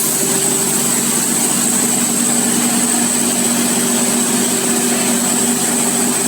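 Concrete mixer truck running steadily during a test of the mixer drum: an even engine hum with mechanical noise.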